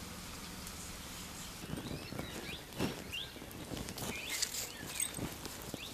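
Birds chirping in short, quick, rising and falling notes, mixed with light clicks and taps from the balls being handled and set on a plastic plate.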